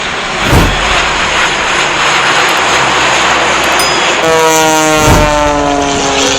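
Aircraft flying past overhead: a loud, steady roar, with a pitch that sweeps downward from about four seconds in as it passes. Brief low thumps, like wind buffeting the microphone, come twice.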